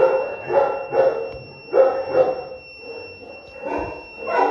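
A dog barking repeatedly, in runs of about two barks a second with a pause in the middle. A steady high-pitched electronic tone sounds underneath.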